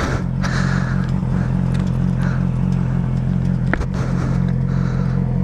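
Motorcycle engine running steadily at low speed, with wind and road noise on the rider's helmet-mounted microphone. A single faint click a little over halfway through.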